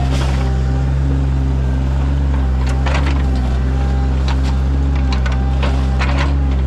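Sany mini excavator's diesel engine running steadily under load while digging a ditch, with several short knocks and scrapes from the work.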